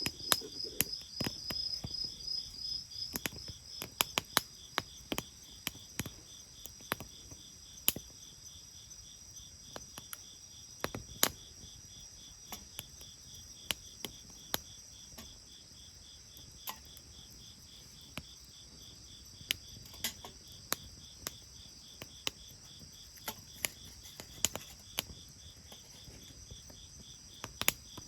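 Wood bonfire crackling, with sharp, irregular pops and snaps. Under it, insects keep up a steady, rapidly pulsing high chirping.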